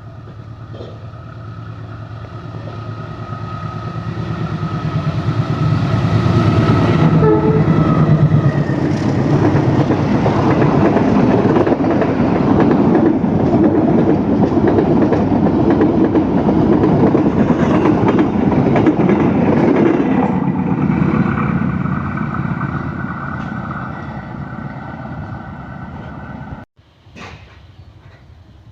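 A KAI CC201 diesel-electric locomotive hauling a passenger train past at speed, with held horn tones in the first several seconds. It grows louder as it approaches, runs loudest for about twelve seconds as the engine and carriages go by with wheels clattering over the rail joints, then fades as the train moves away. The sound cuts off abruptly near the end.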